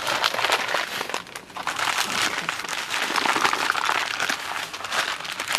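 Packaging crinkling and rustling continuously as a newly bought item is unwrapped by hand.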